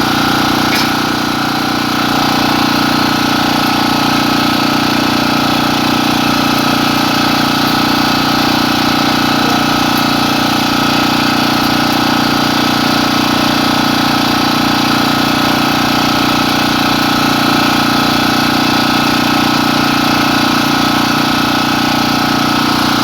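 An engine running steadily at idle: a continuous hum with several steady tones that does not change.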